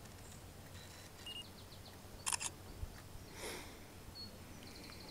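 Quiet open-air background with faint birds calling: a quick run of high notes a little over a second in and a short high note near the end. A short, louder scratchy sound about two seconds in stands out above the rest.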